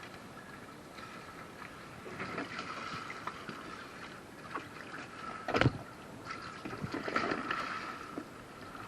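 Water splashing and sloshing around a kayak, with a louder stretch about two seconds in and again near the end. A single sharp knock a little past halfway is the loudest sound.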